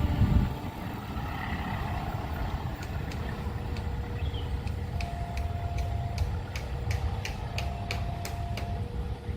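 A train running past with a steady low rumble, while a level-crossing warning signal sounds a faint two-pitch alternating tone. About five seconds in, a run of sharp clicks comes through, closer together toward the end.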